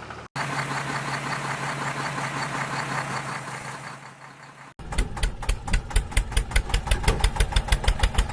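Engine sound in two spliced parts: a steady running drone first, then, after an abrupt cut about two-thirds of the way in, a faster chugging idle at about seven beats a second.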